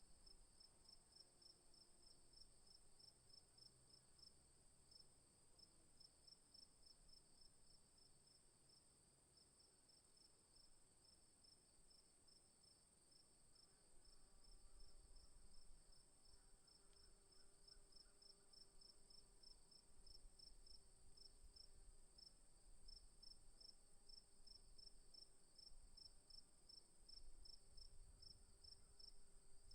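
Faint chorus of crickets: an even, rapid pulsing chirp over a steady high-pitched trill.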